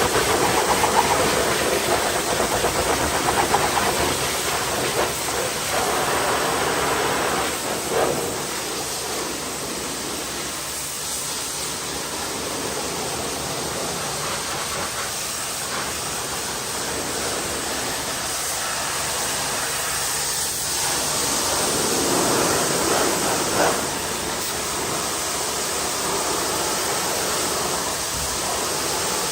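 Pressure washer spraying water onto a car, a steady loud hiss that swells and eases every few seconds as the spray moves over the bodywork.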